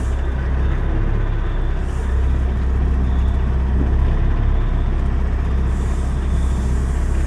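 Semi-truck diesel engine running steadily with a heavy low rumble, with faint hissing about two seconds in and again near the end.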